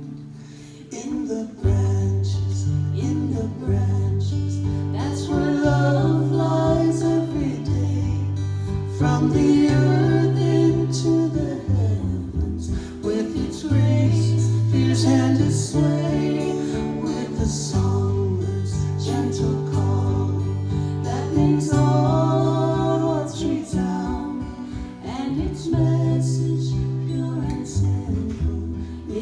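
A gentle acoustic guitar lullaby played live: a melody line moves over low bass notes that change about every two seconds.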